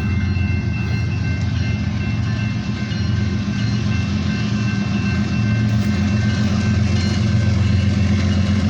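Kansas City Southern diesel locomotive approaching and working hard under load: a steady low engine drone, with a few faint steady high tones above it.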